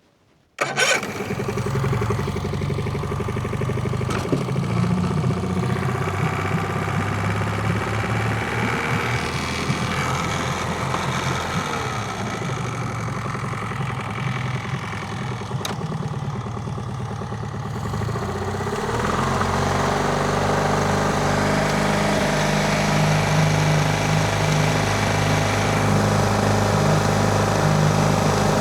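Boat's gasoline engine catching about half a second in and then running, its speed wandering before it settles a little louder and steadier after about 19 seconds. It is running with its new electric fuel pump switched off.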